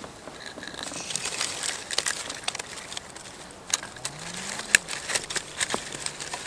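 Irregular crackling with sharp snaps and clicks, the loudest snap a little under five seconds in.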